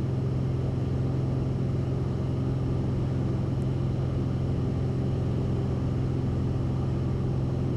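Cessna 172RG's four-cylinder piston engine and propeller running at full climb power, a steady unchanging drone heard inside the cabin.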